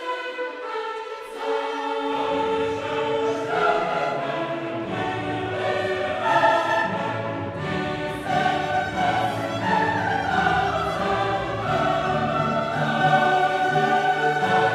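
Choral music with voices singing held notes over orchestral accompaniment; lower parts come in about two seconds in.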